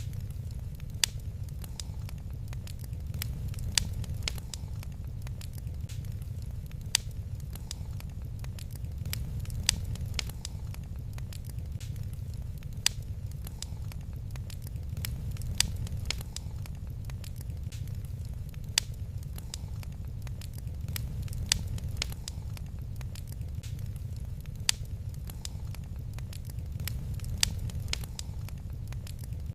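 Wood fire crackling in a fireplace: a steady low rumble with a constant scatter of small crackles and a sharp, louder pop every few seconds.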